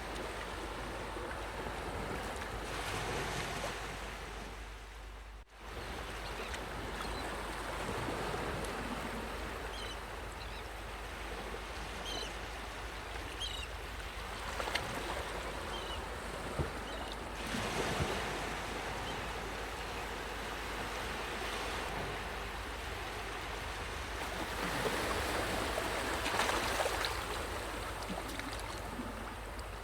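Sea waves washing onto a shore: a continuous rush of surf that swells and ebbs every several seconds, with a brief sudden dip about five seconds in.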